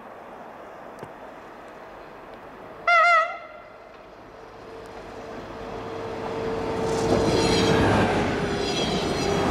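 A Stadler GTW diesel multiple unit sounds one short horn blast about three seconds in, slightly wavering in pitch. It then draws near and passes, its running noise swelling over the last few seconds.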